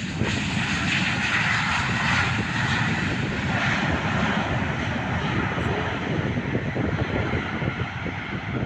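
Airliner's jet engines as it passes close by: a loud rushing noise over a low rumble, the higher rush strongest in the first few seconds and easing off after.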